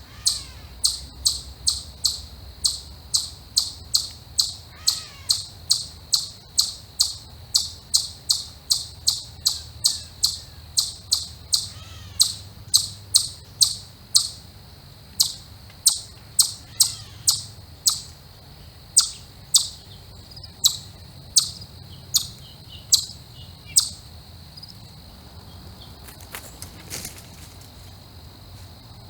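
A small animal's sharp, high chip call, repeated steadily about twice a second for most of the stretch, stopping near the end. Beneath it runs a steady high insect trill, with a few faint, softer chirps from other birds.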